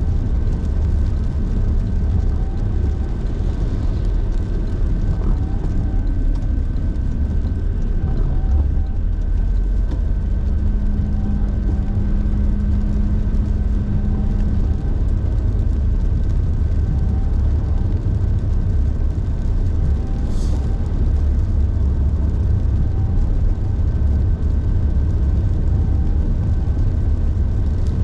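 Car driving, a steady low rumble of road and engine noise. A brief hum joins in around ten seconds in, and there is a short sharp sound about twenty seconds in.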